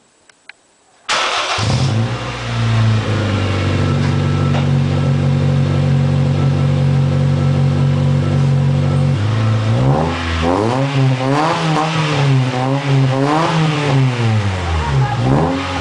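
Honda Fit's four-cylinder engine with an aftermarket racing exhaust starting about a second in, then idling steadily. From about halfway, it is revved several times, the exhaust note rising and falling with each blip of the throttle.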